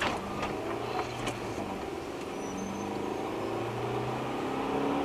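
Car engine heard from inside the cabin, climbing steadily in pitch and loudness as the car accelerates, with a few sharp knocks in the first second and a half.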